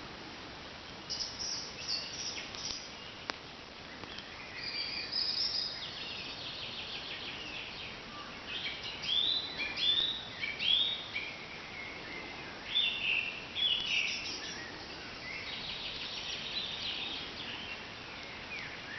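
Wild songbirds singing: repeated high chirping phrases and fast trills, loudest around the middle, with one sharp click about three seconds in.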